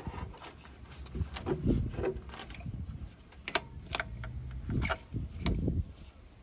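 Scattered plastic clicks and rubbing as an ignition coil and its electrical connector are handled, among them the click of the connector plug latching onto the coil, which is the sign that the connector is properly seated.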